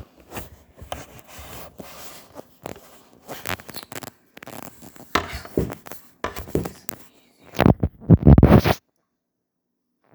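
Hands handling a sewing machine bobbin and thread: irregular scratching, small clicks and rubbing, with a louder, low rubbing stretch a little after halfway.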